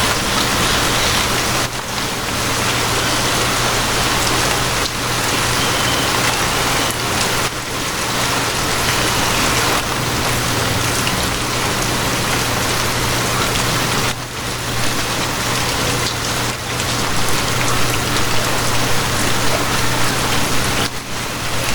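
Steady rain, a dense, even hiss of falling drops, with a low steady hum underneath.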